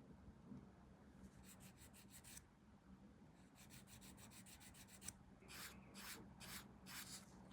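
Faint sanding strokes on a small plastic model-kit part: a short run of quick strokes, a faster run of about ten, then four longer, slower strokes.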